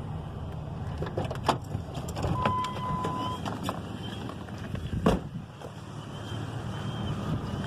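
A few sharp knocks and clunks, the loudest about five seconds in, over a steady low rumble, with a brief steady beep lasting about a second a little after two seconds in.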